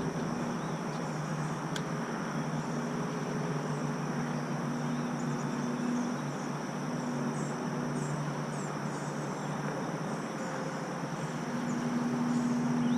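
Steady high-pitched insect drone of summer insects, with short bird chirps scattered over it and a low steady hum underneath.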